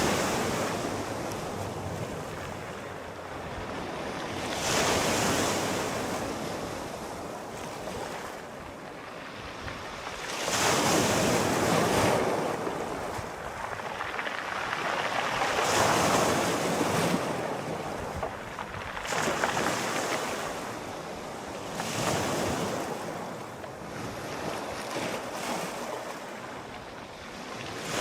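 Sea waves breaking and washing in on the shore, swelling and fading in slow surges about every five to six seconds over a steady rush of water.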